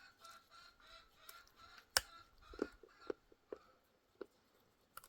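Chickens clucking faintly in short repeated calls for the first two seconds. Then comes a sharp click, followed by five or six light, irregular knocks over the next three seconds.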